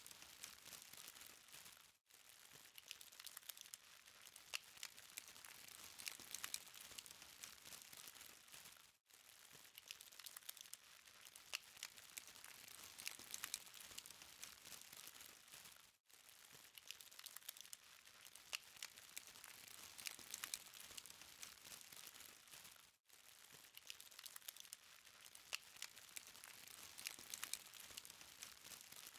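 Charcoal fire crackling faintly: a continuous fine crackle of small sharp ticks and pops, with a brief break about every seven seconds.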